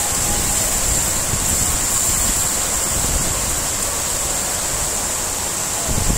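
Heavy rain pouring down in a steady dense hiss, with a low uneven rumble of wind buffeting the microphone.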